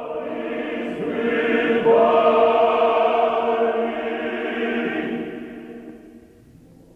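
Background choral music: a choir singing slow, sustained chords that swell about two seconds in and fade out near the end.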